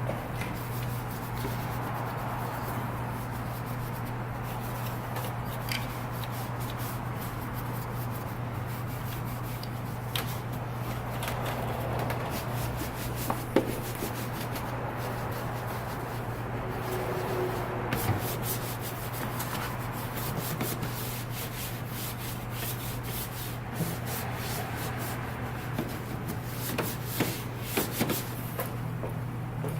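Applicator pad rubbing a dressing onto engine bay trim: a continuous scrubbing with scattered small clicks, over a steady low hum.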